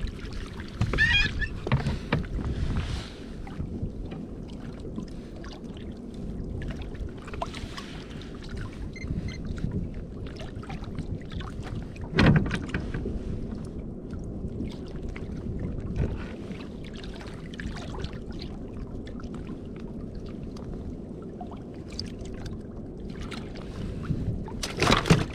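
Sea kayak on the water: a steady low rumble of wind and water, with occasional knocks. The loudest knock comes about twelve seconds in, and there are more near the end.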